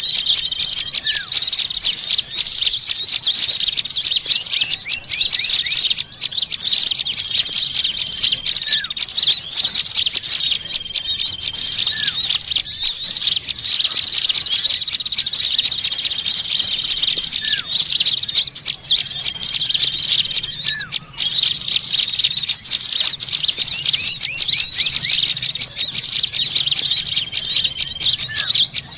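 Dense chorus of many small birds chattering and chirping noisily in rapid, high-pitched calls, with a short rising call recurring now and then. It is a bird-lure (pikat) recording of small birds, used to draw wild birds in.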